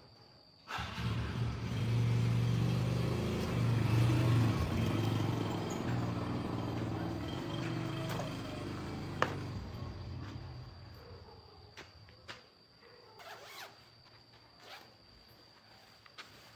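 Motorbike engine starting up suddenly and running, then moving off and fading away about ten seconds in. A single sharp click stands out partway through.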